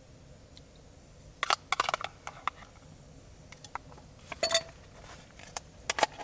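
Metal cookware and utensils clinking and knocking in scattered, irregular strikes, with one louder clink about halfway through that rings briefly.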